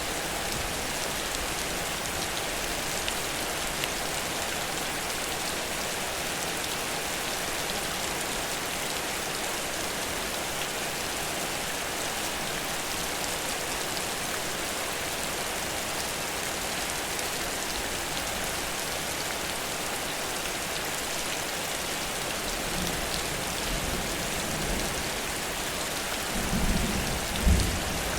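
Heavy rain falling steadily, a dense even hiss of drops. Low thunder rumbles in near the end, loudest about 27 seconds in.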